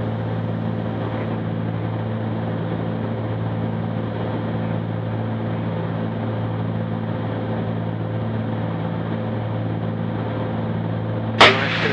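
Steady drone of the Cessna 310Q's twin piston engines and propellers in flight, a constant hum made of several even tones. A voice cuts in near the end.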